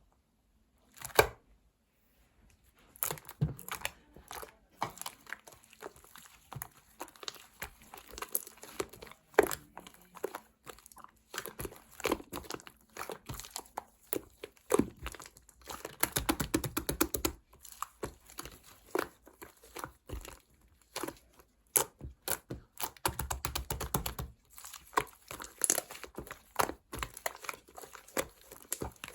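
Hands working slime: sticky pops, clicks and crackles as it is pressed, stretched and folded. There are two longer stretches of dense crackling with a wetter squelch, about 16 and 23 seconds in.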